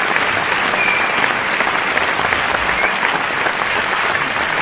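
Sustained applause from a large crowd, many hands clapping steadily at once, with faint short whistles about a second in and again near three seconds.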